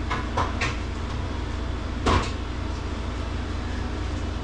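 A few light knocks early on and one louder clunk about two seconds in, over a steady low hum.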